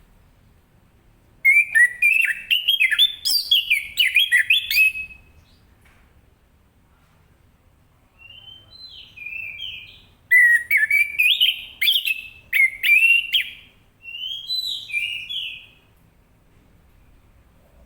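Orange-headed thrush singing in full song: two bouts of fast, varied warbling with sharp, loud notes. The first comes about a second and a half in and lasts a few seconds; the second starts softly around eight seconds, peaks loudly, then tails off.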